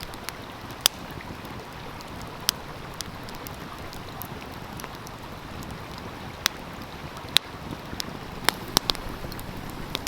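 Wood fire crackling, with sharp pops at irregular intervals over the steady rush of a stream.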